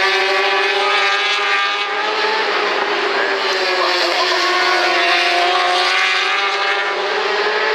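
Racing superbike engines at high revs, several heard at once, their pitch dipping and then climbing again twice.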